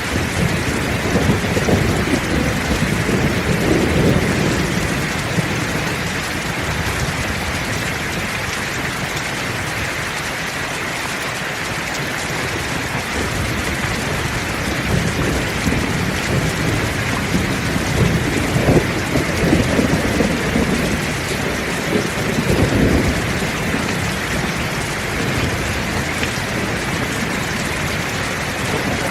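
Heavy rain falling steadily, with low rolling thunder rumbling through it in two long spells, one at the start and one past the middle.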